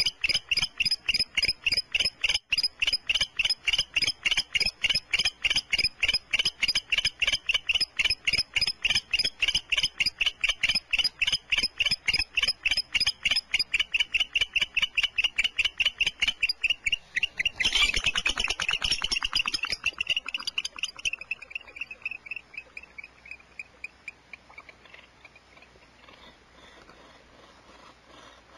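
An animal calling in a fast, even series of high chirping notes, about four to five a second, that fade away over the last few seconds. A short, loud, harsh burst of noise breaks in about 18 seconds in.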